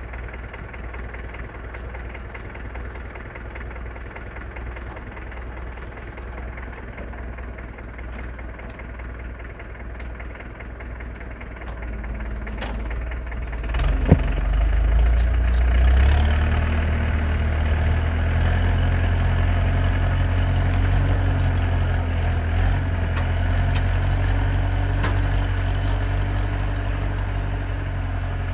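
Farm tractor engine running at idle, then speeding up about halfway through, with a single sharp clank as it does. It then holds a louder, steady working speed.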